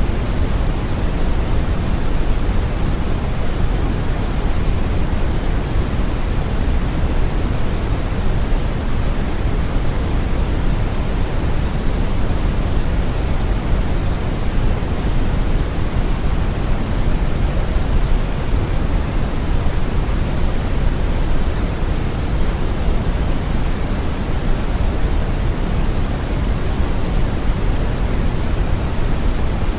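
Brown noise: a steady, deep rushing hiss, heaviest in the bass and falling off toward the treble, with no changes or events.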